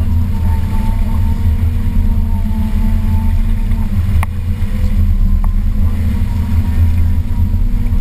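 Motorboat engine running steadily, a low rumble with a faint steady hum above it. Two brief clicks around the middle.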